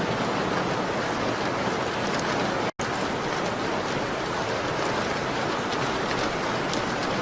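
Steady rain hiss on a window, with faint small crackles mixed in. The sound drops out completely for an instant a little under three seconds in, then resumes unchanged.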